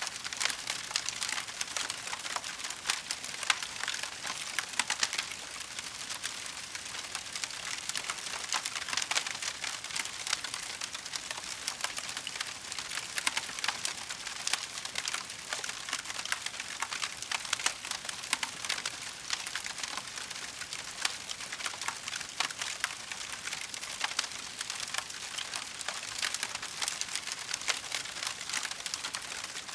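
Burning wood crackling in a fireplace: a dense, continuous stream of small pops and snaps with a few sharper cracks.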